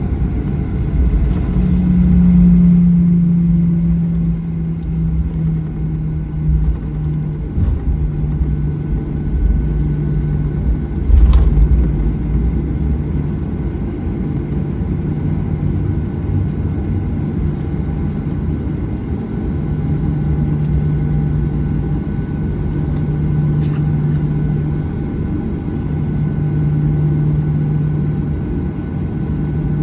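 Cabin noise of a Boeing 737-900ER: a steady low rumble from the airframe and CFM56 jet engines, with a steady engine hum that dips slightly in pitch within the first few seconds. A single thump comes about eleven seconds in.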